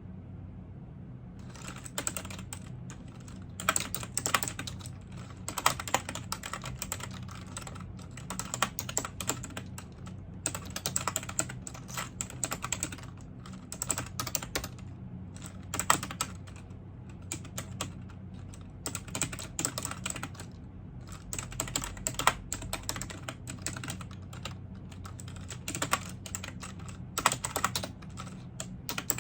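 Typing on a computer keyboard: runs of rapid key clicks broken by short pauses, starting about a second and a half in.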